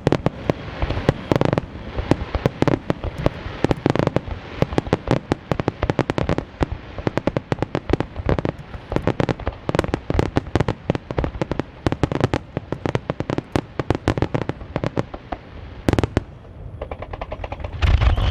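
Aerial firework shells bursting in quick succession: a dense run of sharp bangs and crackles, several a second, with a few heavier booms standing out among them.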